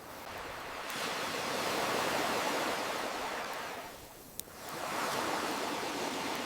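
Ocean surf washing in and drawing back, one long swell fading about four seconds in before the next wave builds. A single sharp crackle from a campfire pops as the wave ebbs.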